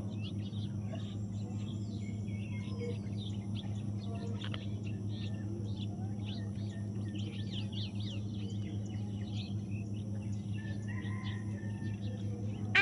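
Birds chirping faintly with many short, high chirps over a steady low hum.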